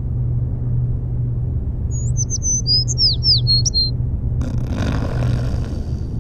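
A bird's quick run of short chirps and sweeping whistled notes over a steady low rumble, followed from about four seconds in by a broad rushing noise.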